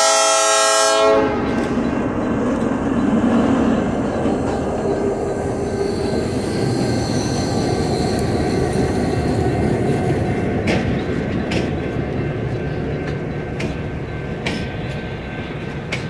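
Diesel locomotive horn sounding, then cutting off about a second in, followed by the locomotive running past close by and its passenger cars rolling after it, with the wheels clicking on the rails in the second half.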